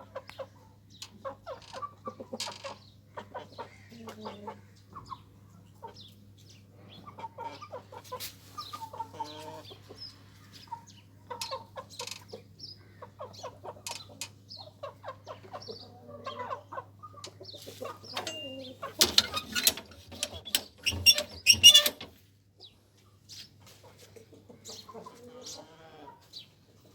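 Aseel chickens clucking, short calls scattered throughout. About two-thirds of the way through comes a loud, noisy burst lasting about three seconds, the loudest thing heard.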